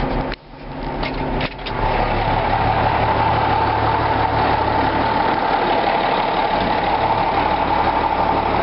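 Case 2290 tractor's six-cylinder 504 diesel idling steadily at about 800 rpm, still cold after a cold start. The sound drops away briefly in the first second and a half, then runs steady.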